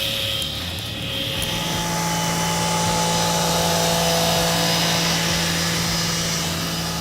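Heavy machinery engine running steadily. About a second and a half in, the sound changes to a steady, even hum.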